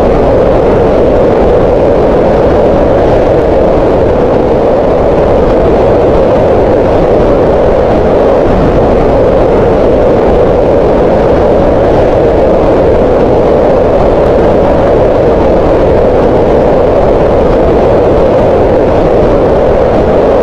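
Green noise: a continuous, unchanging hiss centred in the middle of the range around 500 Hz, with less energy in the low and high ends.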